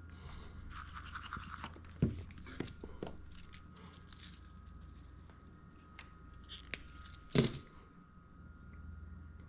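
Soldering work at a bench: a brief scratchy hiss about a second in, then scattered light clicks and knocks from tools and parts being handled, the loudest about three quarters of the way through, over a steady low hum.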